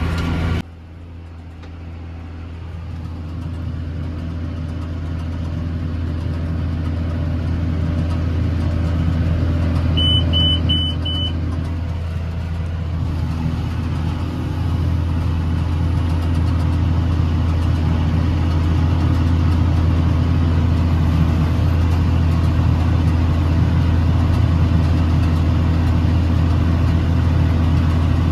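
Tractor engine running steadily under load while pulling a round baler, a low drone that drops suddenly just after the start and builds back up over the next several seconds. Four short high electronic beeps from the baler monitor come about ten seconds in.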